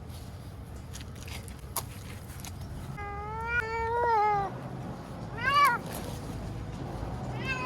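A frightened stray cat crying in distress over a low background rumble: one long drawn-out meow about three seconds in, a short sharp one a second later, and another beginning near the end.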